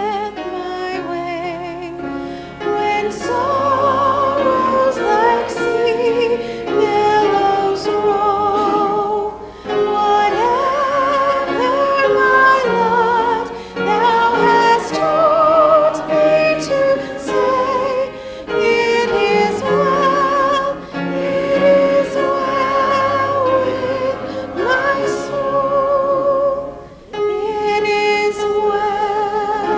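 A congregation singing a hymn, with voices holding notes with vibrato and short breaks between lines.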